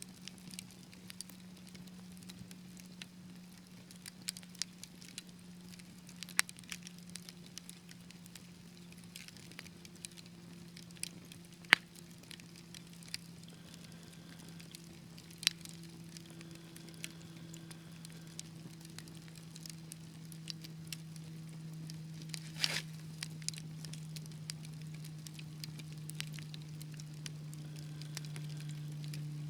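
Wood fire crackling, with scattered sharp pops, the loudest about twelve seconds in and a cluster of cracks a little past twenty-two seconds. Under the pops runs a steady low hum that slowly drops in pitch.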